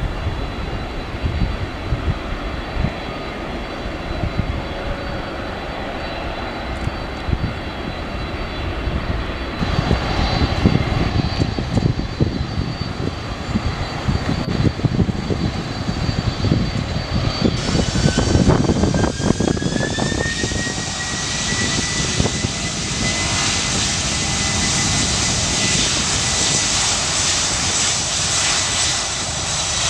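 Jet airliner engines running with a low rumble and a steady high whine; a little past halfway a tone rises in pitch and then holds while the hiss of the engines grows louder.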